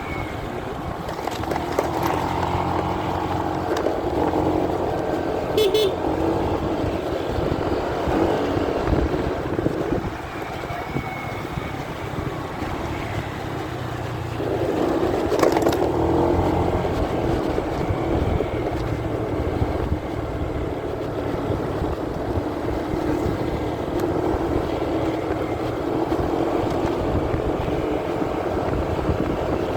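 Motorcycle ride heard muffled through a phone carried in a pocket: engine running with continuous road and wind noise, growing louder about halfway through.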